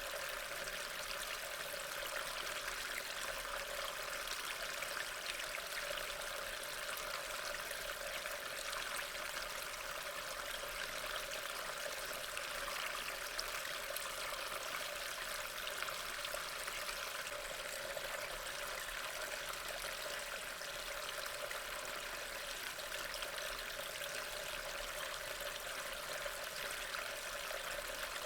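Steady rain falling: an even, unbroken hiss with no thunder or separate louder drops.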